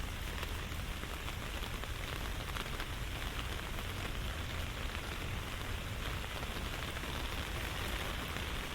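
Steady rain: an even hiss of falling drops, dotted with many small ticks, over a low rumble.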